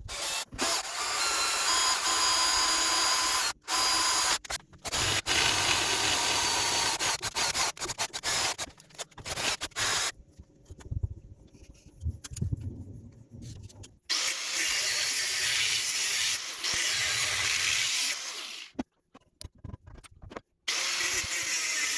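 Power tool working metal in a run of short edited clips: a loud, harsh, steady noise that starts and stops abruptly at each cut, with a lower rumble in the middle section.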